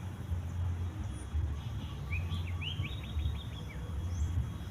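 A songbird calling a short phrase of quick rising chirps that runs into a rapid trill, about two seconds in, over a steady low rumble.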